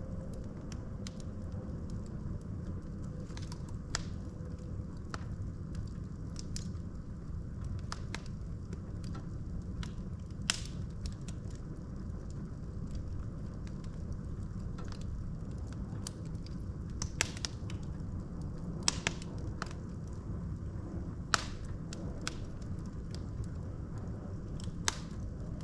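Logs burning in a fireplace: a steady low rumble of the flames with irregular sharp crackles and pops of the wood. The loudest pops come about ten seconds in and in a cluster from about seventeen to twenty-five seconds.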